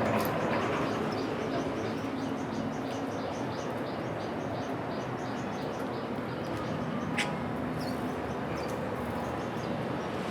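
Small birds chirping in rapid series of short high notes, with one louder, sharper call about seven seconds in, over a steady low rumble of background noise.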